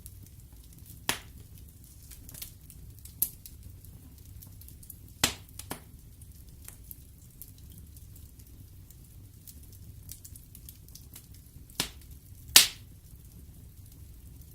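Wood fire burning in a fireplace: a low steady rumble of flames with scattered sharp crackles and pops. There are about half a dozen pops, the loudest near the end.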